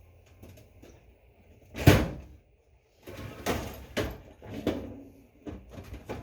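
Rattling and clanking of rummaging through hardware for bolts: one loud knock about two seconds in, then a run of irregular clatters.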